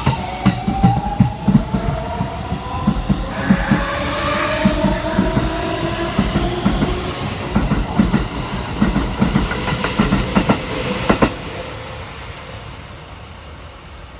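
Keikyu 1000-series electric train (the "Singing train") accelerating away from a station: the Siemens GTO inverter's pitched whine rises steadily while the wheels knock over rail joints. The knocking stops about eleven seconds in and the sound fades as the train moves off. The uploader says the train makes an abnormal noise from cars 4 and 5.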